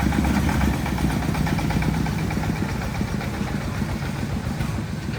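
Truck engine running steadily at a low rumble, easing slightly about a second in.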